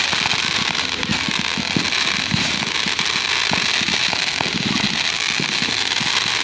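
Fireworks display going off at close range: a rapid, irregular string of pops and bangs over a steady hiss.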